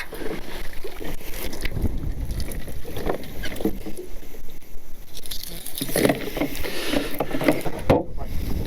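Wind buffeting the microphone on a small fishing boat, with a low rumble, water noise and irregular knocks and handling clatter on the boat.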